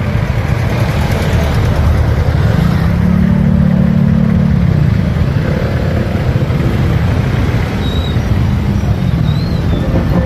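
Motorcycle ride with a heavy, steady rumble of wind and road noise; the engine note swells for a couple of seconds around the middle.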